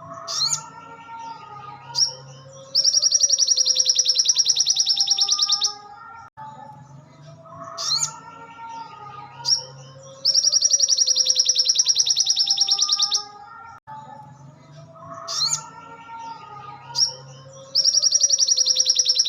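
Looped recording of a sogon (sogok ontong) songbird singing: a few short high chirps, then a rapid, high, even trill lasting about three seconds. The phrase repeats about every seven and a half seconds, three times, over lower wavering tones.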